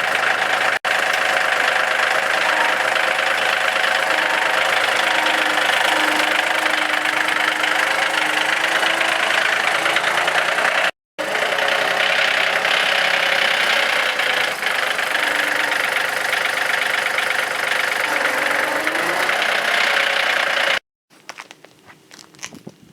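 Portable band sawmill's gas engine running steadily under load, the blade cutting through a walnut log. It breaks off abruptly twice and stops near the end.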